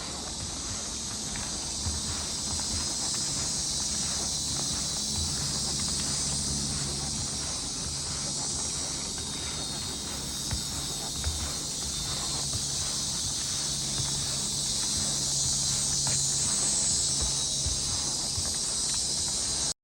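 A chorus of insects in a swamp, a dense steady high-pitched buzz with no break, over a faint low steady hum.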